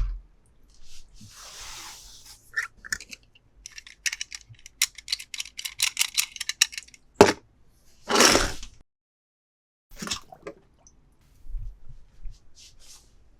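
Small plastic toys and packaging being handled: scattered clicks and a run of rapid crackling clicks, then a sharp click and a short rustling hiss, and a few more light clicks.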